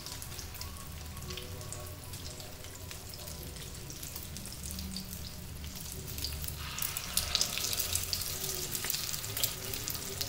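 Oil sizzling and crackling around egg-coated chicken kababs shallow-frying in a pan. About seven seconds in, the sizzle gets louder as another egg-dipped patty goes into the hot oil.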